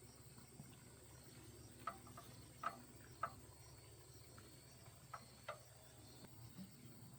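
Faint steady chirring of crickets or other insects over a low hum, with a handful of short light clicks in the middle, as of tools being handled.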